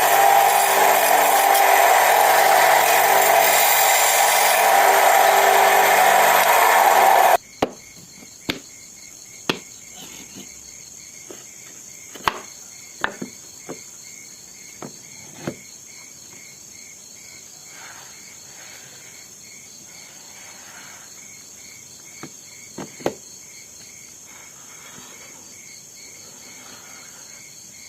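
A power tool cutting or sanding wood runs loudly for about seven seconds, then stops abruptly. It is followed by scattered sharp knocks and taps of wooden pieces being handled, with steady insect chirping, like crickets, underneath.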